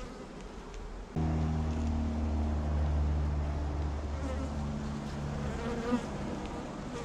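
Honeybees buzzing around an open hive. About a second in, a louder, steady low buzz sets in suddenly.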